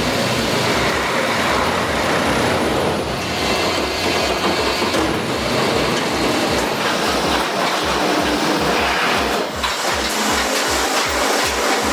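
Cambio 800 ring debarker running as logs feed through, with a dense, steady grinding noise. A regular low thumping, about three to four a second, runs underneath it.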